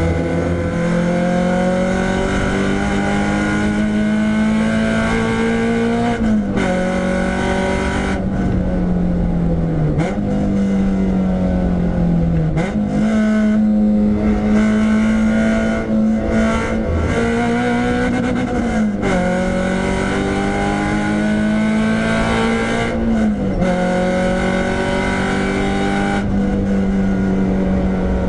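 Renault Clio 172's 2.0-litre four-cylinder engine working hard on track, its note climbing steadily under acceleration and dropping sharply four times as gears change or the driver lifts off.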